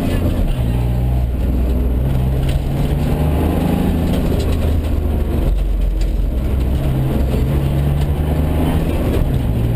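Mitsubishi Colt rally car's engine heard from inside the cabin, pulling hard, its pitch climbing and then dropping several times as the driver works through the gears.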